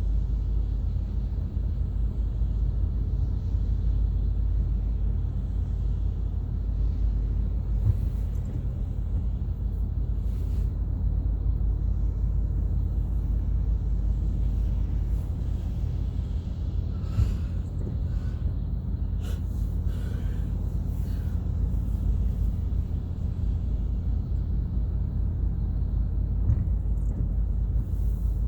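Steady low rumble of a car's engine and tyres, heard from inside the cabin while driving, with a few faint clicks and taps partway through.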